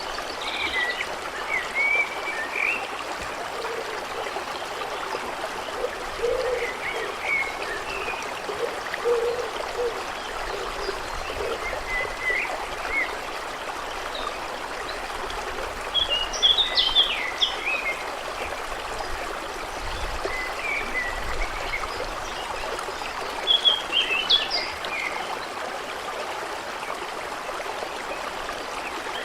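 A small stream trickling steadily, with birds chirping over it in short scattered phrases, strongest twice in the second half.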